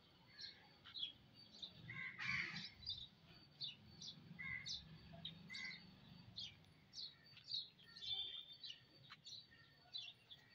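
Birds calling: a run of short, high chirps about two a second, with a few lower, harsher calls about two, four and a half, and five and a half seconds in.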